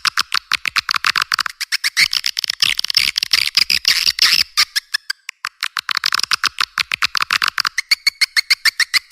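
Recorded swiftlet calls played as a call lure: dense trains of rapid, sharp chirping clicks, many per second, with a brief thinning about halfway through.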